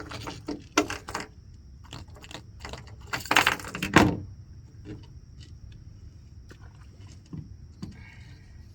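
Irregular knocks and rattles of handling on a boat, with a loud rustling rush about three seconds in and a sharp knock just after, over a steady low rumble.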